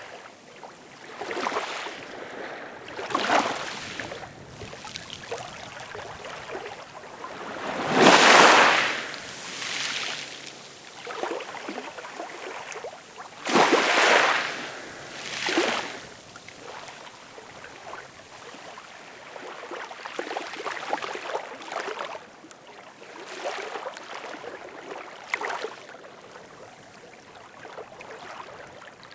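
Ocean waves breaking and washing in, swelling and fading every couple of seconds, with two larger breakers about eight and fourteen seconds in.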